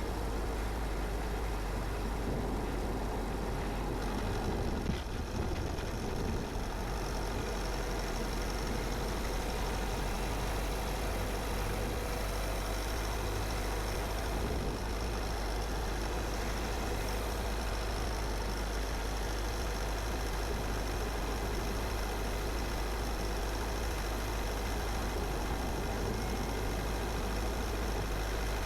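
Car driving: steady engine and road noise, with a single brief knock about five seconds in.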